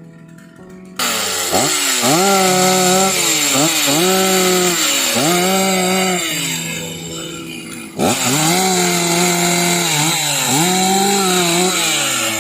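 Two-stroke chainsaw revving up and cutting wood, its engine note rising, holding and dropping again every second and a half to two seconds. It stops abruptly about eight seconds in and starts again at once. Background music plays underneath.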